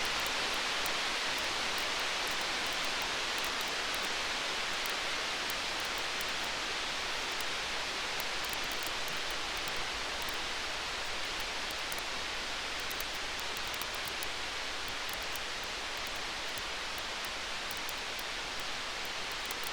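Wood fire crackling: small, sharp pops scattered over a steady hiss.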